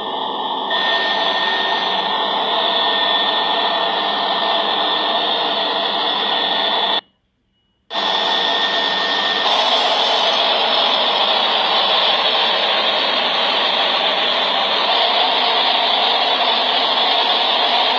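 Steady rushing noise of strong storm wind. It breaks off into about a second of silence some seven seconds in.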